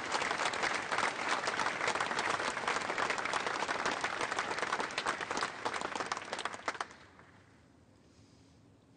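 Audience applauding, dense clapping that dies away about seven seconds in, leaving quiet room tone.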